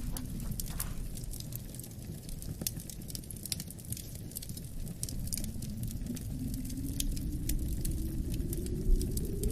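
Wood fire crackling with scattered sharp pops, over a low howling wind whose pitch sinks and then rises again toward the end.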